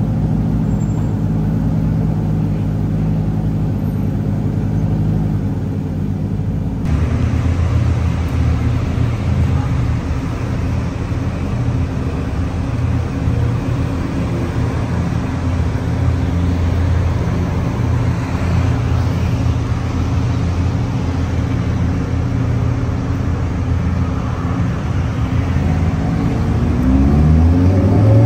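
Lamborghini supercar engines idling in a steady low rumble. About seven seconds in the sound changes abruptly to cars rolling out at low speed, and near the end a Lamborghini Huracán's V10 revs up, rising in pitch, as it passes.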